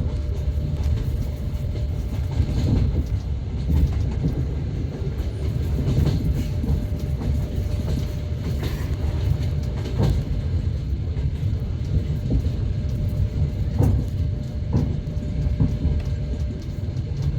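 Passenger train wheels rolling on the rails, heard from inside the carriage: a steady rumble with irregular knocks as the wheels cross rail joints.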